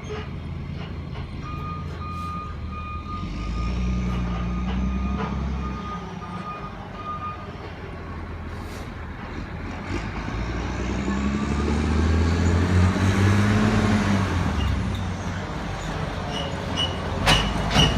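Lodal Evo garbage truck's engine running, with its reversing alarm beeping for several seconds. The engine then revs up and holds high for a few seconds before settling, and a few sharp knocks come near the end.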